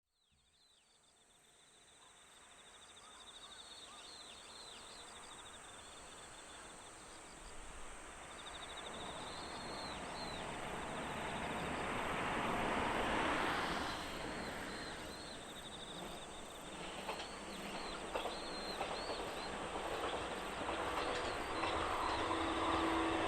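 Train running along the line, its noise swelling to a peak about halfway and building again near the end, with a steady low hum coming in late. High chirping calls sound repeatedly in the background.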